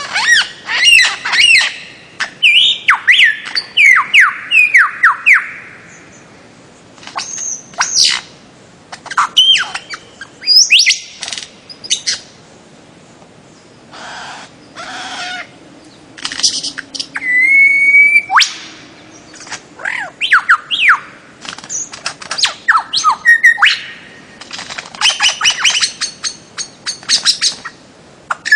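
Bird-of-paradise calling: loud runs of quick, sharp downward-sweeping notes and clicks, broken by short pauses, with one held whistled note a little past halfway.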